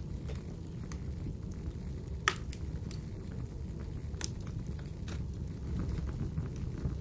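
Wood fire crackling with scattered sharp pops, one loud pop about two seconds in, over the steady low rush of rainfall.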